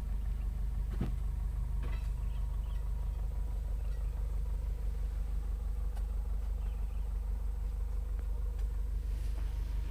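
Truck engine running at a steady low drone, with a few faint ticks on top.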